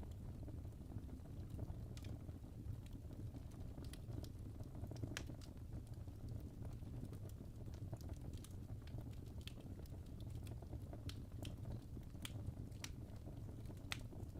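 Fire crackling: scattered sharp snaps and pops at an uneven pace over a low, steady rumble.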